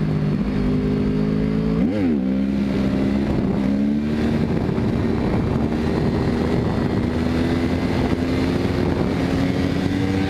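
Yamaha R1 inline-four sportbike engine doing a clutch-up wheelie: about two seconds in, a quick rev spike as the clutch is dumped. The engine then pulls with a steady, slowly rising note as the bike accelerates on the back wheel.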